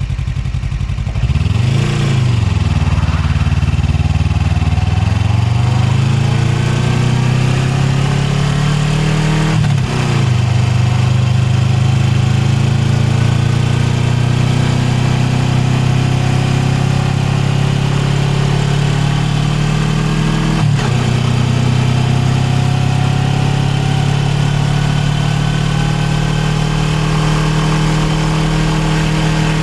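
Suzuki GSX250R's 248 cc parallel-twin engine heard from on board while riding: low and steady at first, then the revs rise, with brief gear changes about two, ten and twenty-one seconds in before settling to a steady cruise. Wind and road noise run underneath.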